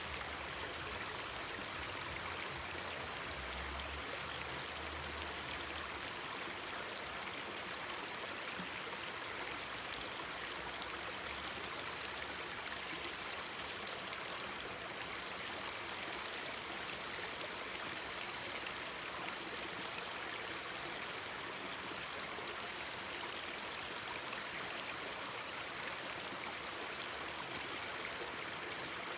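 Mountain stream flowing and babbling steadily over rocks, with one sharp pop about a second and a half in.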